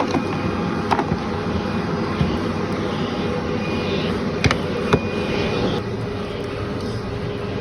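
Vacuum cleaner running steadily over a dirty carpet, with a few sharp clicks and crackles as grit and debris are sucked up, once about a second in and twice near the middle.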